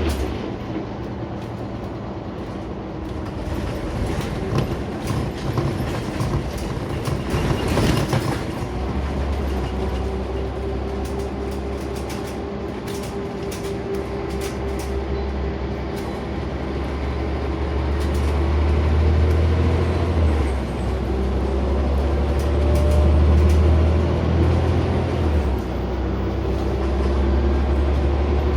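Scania CN94UB Omnicity single-deck bus under way: a steady low drone from the diesel engine and drivetrain over road noise and interior rattles. The drone drops away briefly twice in the second half.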